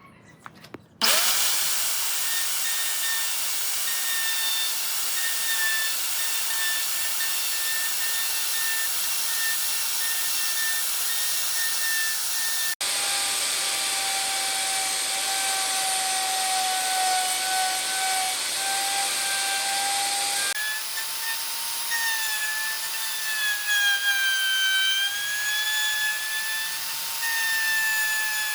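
Electric power tool working wood, starting up about a second in and then running steadily with a hiss and a high whine that dips and wavers slightly under load. The sound changes abruptly twice.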